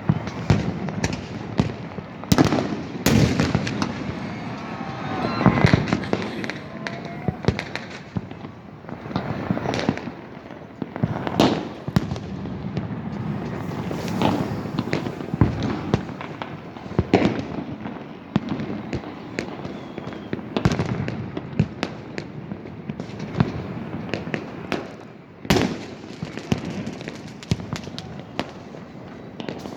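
Fireworks going off continuously: many sharp bangs and pops at irregular intervals, overlapping one another, the loudest near 3, 12 and 25 seconds in.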